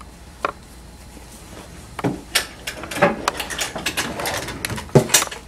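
Someone handling things at a wooden office desk and chair: scattered clicks, knocks and rustling, with the loudest knocks about five seconds in.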